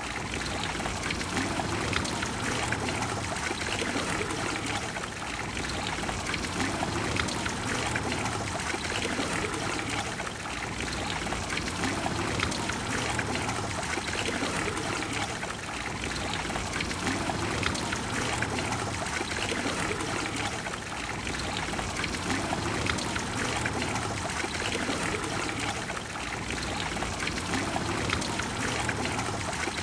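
Water of the Trevi Fountain splashing and flowing steadily into its basin, a continuous rush of falling water.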